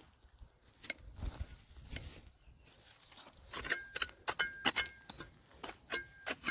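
Sharp clinks and knocks of a metal digging tool striking rock, a few at first and then coming quickly in the second half, several with a brief metallic ring.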